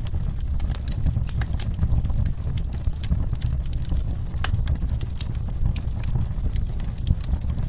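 Fireplace fire crackling with irregular sharp pops, over a steady deep rumble of rain.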